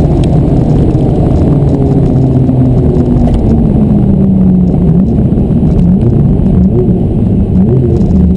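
Ferrari F430's V8 engine running at speed, heard from inside the cabin over wind and road noise. The engine note eases down gradually, then dips and rises a few times in the second half.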